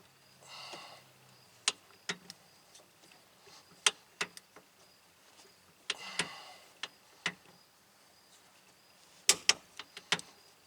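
Sharp metal clicks and clinks of a torque wrench and socket working the rear brake caliper bolts, with two brief scraping rustles. A quick run of louder clicks comes near the end.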